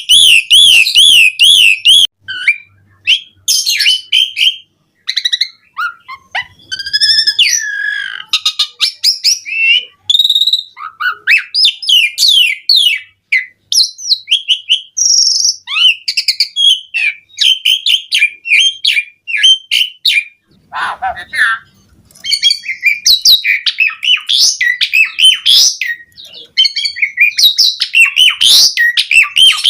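Asian pied starling (jalak suren) singing a long, varied song: fast warbling trills, whistled glides and chattering, clicking notes, broken by a few short pauses.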